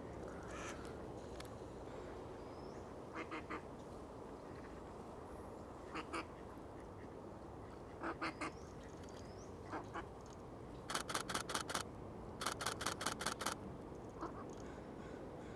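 Camera shutter firing in rapid bursts, groups of two to seven clicks at about five or six frames a second, several times, the longest runs near the end. Faint short bird chirps come in between.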